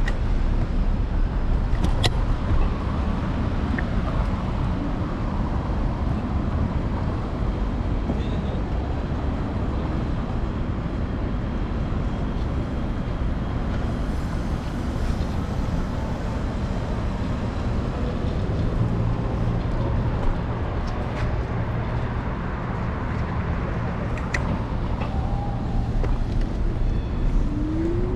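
City street traffic heard from a moving electric scooter, over steady low wind and road rumble on the handlebar-mounted microphone. A vehicle's low engine hum joins about two-thirds of the way through, a few sharp clicks stand out, and a rising whine begins near the end.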